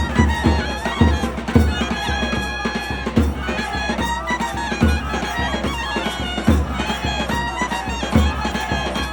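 Nadaswaram playing a held, ornamented melody over irregular, heavy thavil drum strokes: the periya melam ensemble that accompanies South Indian temple processions.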